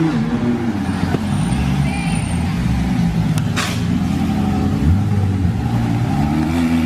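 Car engine revving, its pitch rising and falling several times, with a short sharp hiss about three and a half seconds in.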